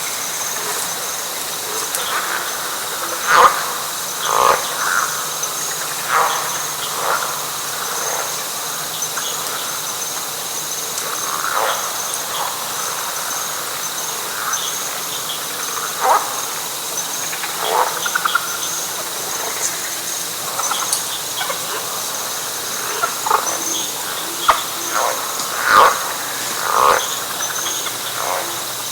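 Night chorus of frogs in a wet pine flatwoods, short calls coming irregularly from several animals, over a steady high trilling of insects.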